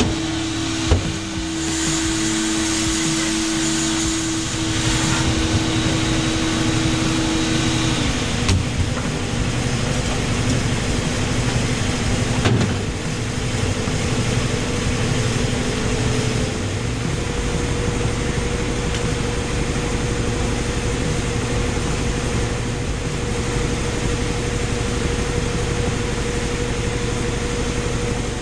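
Electric shop power tool motor running with a steady whine, its pitch shifting a few times, with a brief knock about a second in.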